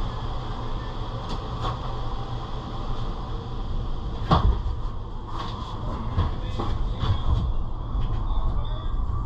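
A series of knocks and clicks as a sheet-metal access panel is handled and fitted back onto an air-conditioning unit, the loudest knock about four seconds in, over the steady low hum of the running system.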